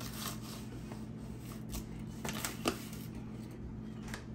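Scattered light clicks and rustling from hands handling small objects, with one sharper click about two and a half seconds in.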